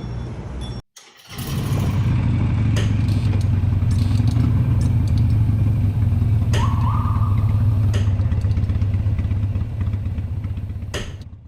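Harley-Davidson V-twin motorcycle engine running steadily at a low, even rumble, with a brief higher-pitched tone about two-thirds through.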